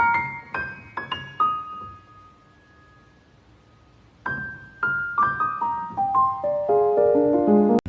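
Background piano music: single notes, a pause of about two seconds, then a run of notes stepping down in pitch.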